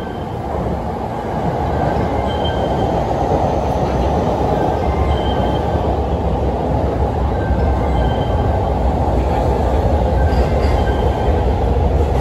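Electric commuter train getting under way. The running noise and rail rumble build over the first two seconds and then hold steady, with brief faint wheel squeaks every second or two.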